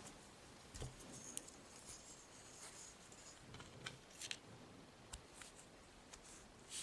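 Faint, scattered clicks and rustling of knitting needles and yarn as knit stitches are worked.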